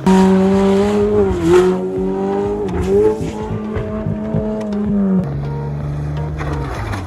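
A car engine held at steady high revs, its pitch dipping briefly twice, then dropping to lower revs a little after five seconds.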